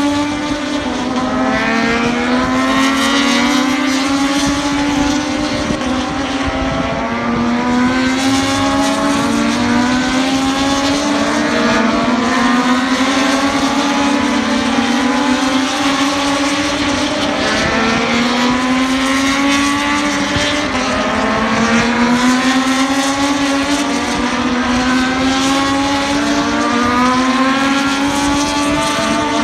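MotoGP racing motorcycle engines running at high revs, the pitch climbing and then dropping again every few seconds as the bikes go up through the gears.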